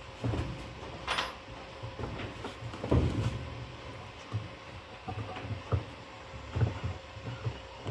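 Irregular metal clunks and knocks as a puller is tightened onto a Consul 10 kg washing machine's drum shaft to pull the tub off, the loudest knock about three seconds in, over a low hum.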